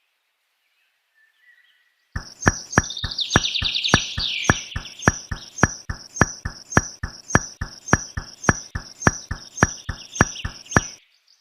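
Birds chirping over a steady, evenly spaced clicking beat of about three clicks a second, which starts about two seconds in and stops just before the end. The first two seconds hold only faint chirps.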